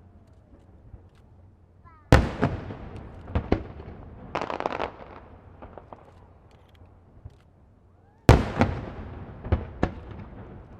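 Aerial fireworks shells bursting overhead. Two loud bangs come about six seconds apart, each followed by a few smaller cracks and an echoing tail.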